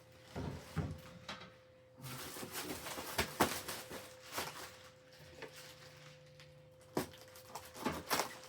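Packaging being pulled apart by hand: irregular crinkling, rustling and sharp clicks and knocks as a heavily taped box is unpacked, densest for a few seconds near the middle.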